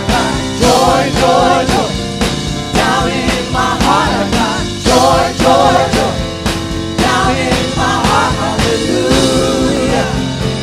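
Church praise team singing an upbeat gospel chorus with a live band, steady drum beat underneath.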